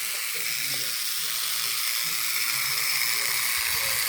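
Small electric motor and gears of a battery-powered TOMY toy train running along plastic track, a steady high whirring hiss.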